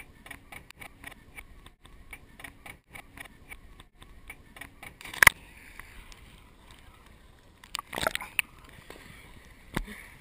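Water lapping and sloshing with a run of small knocks, two or three a second. A single sharp crack comes about five seconds in, and a brief cluster of knocks near the end.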